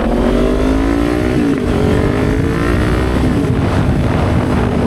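Kawasaki Ninja 500 parallel-twin engine accelerating through the gears, rising in pitch and dropping sharply at two upshifts, about a second and a half and three seconds in, then holding a steady cruise. Low wind rush runs underneath.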